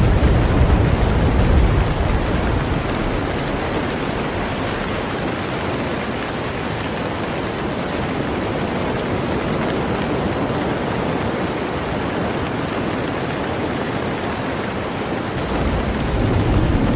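Heavy rain falling on a boat, a steady dense hiss. A deep low rumble swells in the first couple of seconds and rises again near the end.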